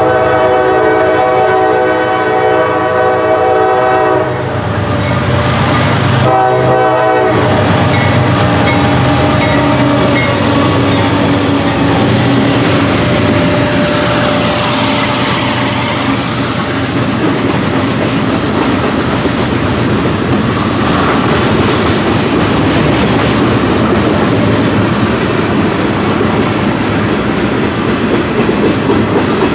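CSX diesel locomotive sounding its horn, a long chord for about four seconds and then a short blast, as the train comes by. The train then keeps passing with a low engine rumble and wheels clacking on the rails.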